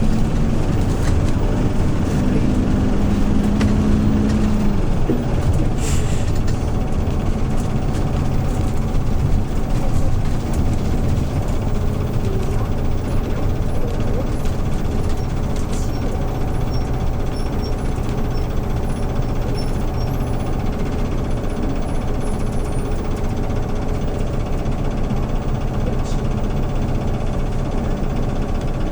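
Hyundai New Super Aero City CNG city bus engine running, heard from inside the passenger cabin as a steady low drone, with a brief hiss about six seconds in and another near the end.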